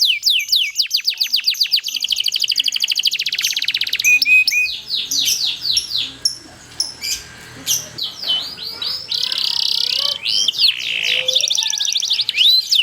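Domestic canary singing a long, rapid song: runs of quick repeated falling chirps and fast rolling trills, with a quieter stretch around the middle.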